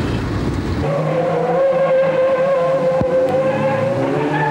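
Sunbeam Rapier's four-cylinder engine running at a steady speed, an even droning note that comes in about a second in, its pitch shifting slightly near the end.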